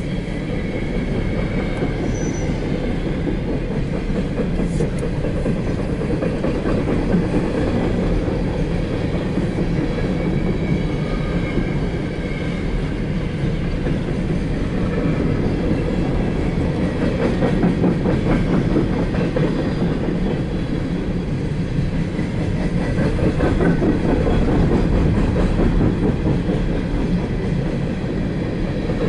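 Empty coal cars of a CSX freight train rolling steadily past at close range: a continuous rumble with the clatter of wheels on the rails.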